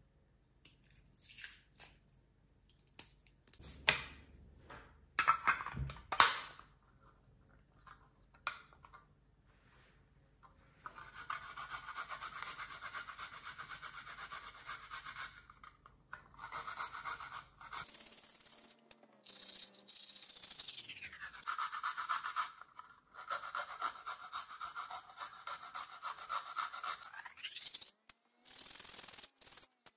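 A run of clicks and knocks, then fast, rhythmic scrubbing or rubbing strokes that carry on for most of the second half.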